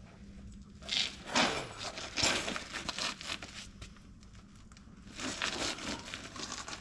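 Scraping and rustling handling noises in two bouts, the first longer, with a short falling squeak partway through it.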